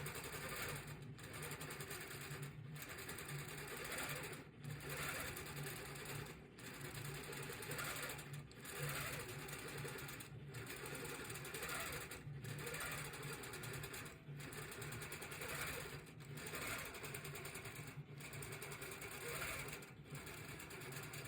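Sewing machine stitching steadily, with a brief stop about every two seconds.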